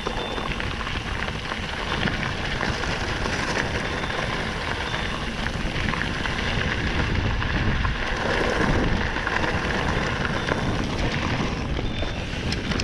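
Mountain bike riding noise: wind buffeting the camera microphone over a crackling, rattling crunch of tyres rolling on gravel and rocky trail.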